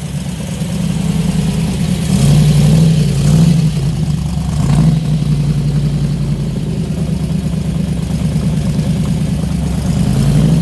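Classic first-generation Chevrolet Camaro's engine running at idle with a steady low exhaust note, rising in revs briefly a few times in the first five seconds.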